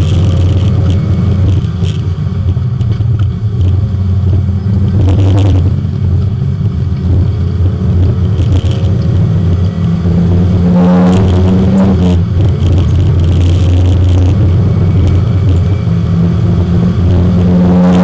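Porsche 924 race car's four-cylinder engine running hard at track speed, heard from inside the cabin, its note rising and falling with throttle and gear changes.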